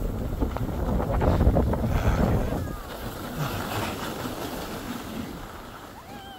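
Wind buffeting the microphone in a low, rumbling rush, loudest in the first couple of seconds and then easing off.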